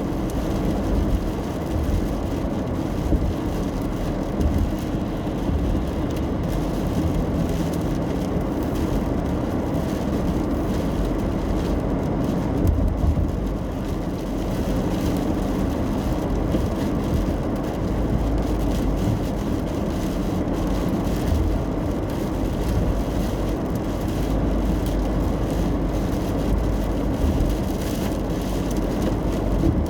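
Steady road noise inside a car driving in the rain: an even, low rumble of tyres and engine with a faint hiss above it.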